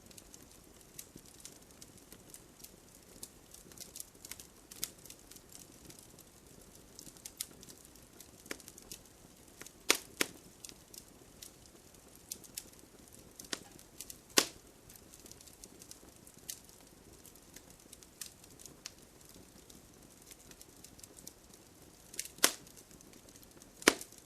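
Wood fire crackling in a fireplace: frequent small snaps over a faint hiss, with a few sharp, much louder pops, two of them near the end.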